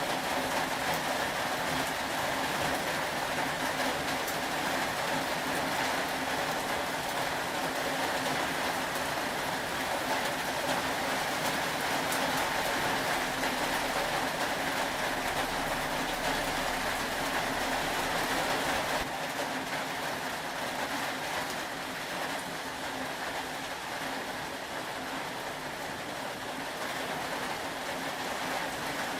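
Steady rain noise in a looping ambience mix, with a faint low hum underneath; about two-thirds of the way through the mix shifts and becomes slightly quieter.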